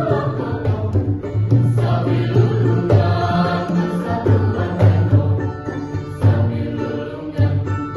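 A mixed choir singing a Sundanese kawih in several voice parts (rampak sekar), with strong low notes moving beneath the melody.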